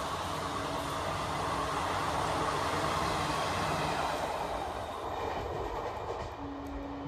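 Express train running past at speed: a dense rush of wheel-on-rail noise with some clickety-clack that swells to a peak and then fades as the train draws away. A steady tone comes in near the end.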